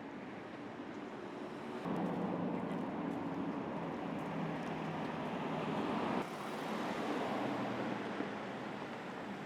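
Street traffic noise, a steady rumble of vehicles, whose level changes abruptly about two seconds in and again about six seconds in.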